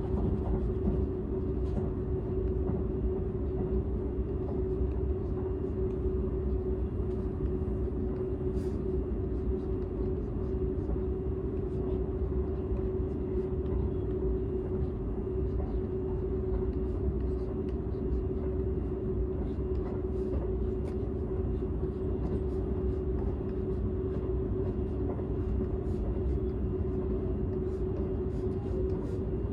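Seibu 001 series Laview limited express train running steadily, heard inside the passenger cabin of its unpowered driving trailer car: an even low rumble with a constant hum and a few faint ticks.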